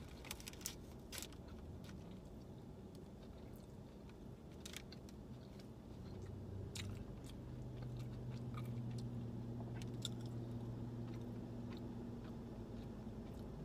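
Close-up chewing of a mouthful of sub sandwich, with scattered wet mouth clicks and soft crunches. A low steady hum comes in about six seconds in.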